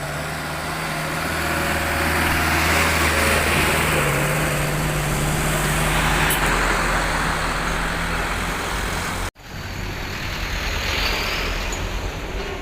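Heavy truck engine running as it passes, with tyre and road noise growing louder over the first few seconds and easing off. The sound cuts out abruptly about nine seconds in, then traffic noise resumes.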